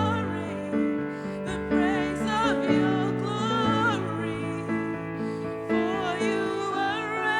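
Worship band playing a slow song: a solo voice singing with a wavering vibrato over held chords and bass notes that change every second or so.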